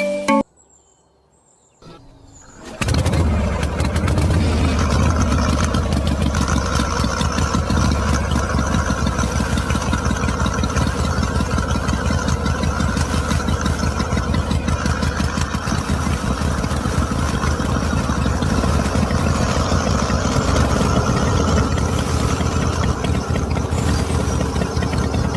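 A small engine starts after a brief silence, about three seconds in, and then runs steadily with a fast, even firing beat.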